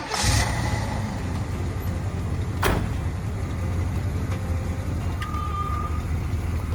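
1983 Chevrolet Monte Carlo SS's 5-liter high-output V8 running steadily, with a single sharp click about two and a half seconds in.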